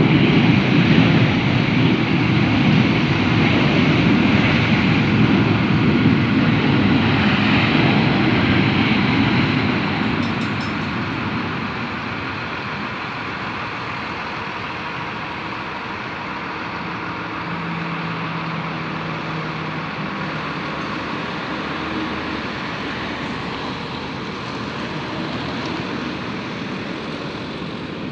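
Jet airliner engines, loud at first, then falling off about ten seconds in to a steadier, quieter rumble with a faint low hum.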